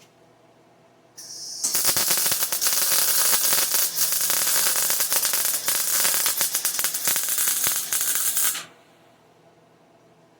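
MIG welder arc crackling steadily as it lays a bead on 3/8-inch steel. It starts about a second in and cuts off abruptly about seven seconds later.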